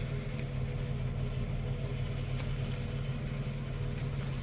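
A steady low mechanical hum, with three faint clicks spread across it from handling the wire connectors.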